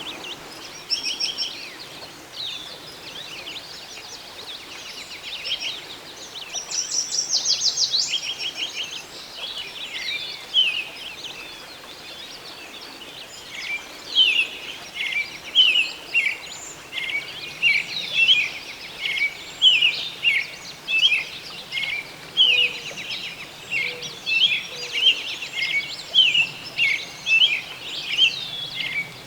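Songbirds singing, with short chirps, a rapid trill about a quarter of the way in, and from about halfway a steady run of short, downward-sliding whistled notes, one or two a second, over a faint steady background hiss.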